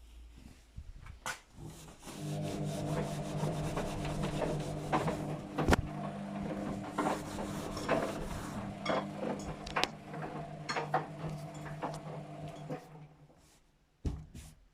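Luxor WM 1042 washing machine in its rinse cycle: the motor starts turning the drum about two seconds in with a steady hum and scattered knocks of the tumbling load, then slows and stops near the end.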